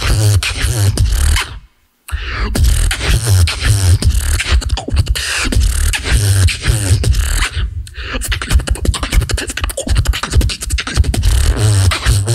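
Solo beatboxing through a microphone: deep bass kicks, sharp snare-like clicks and wavering pitched vocal bass lines in a fast rhythm, with a sudden full stop for a split second about two seconds in.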